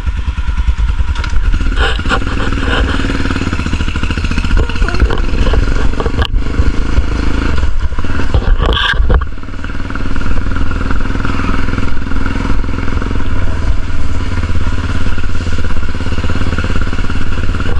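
Motorcycle engine running steadily, with a heavy low rumble and wind on the microphone. There is a brief change about nine seconds in.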